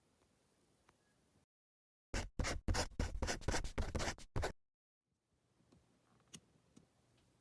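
Pen writing quickly on paper: a couple of seconds of dense, scratchy strokes, set between short gaps of dead silence, with faint room tone and a few light clicks around them.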